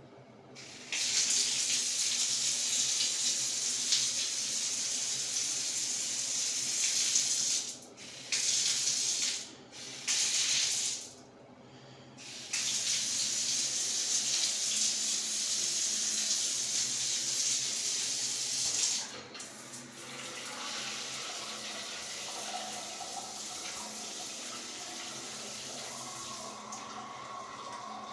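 Water running hard from a tap. It is shut off and turned back on several times, then runs at a lower flow.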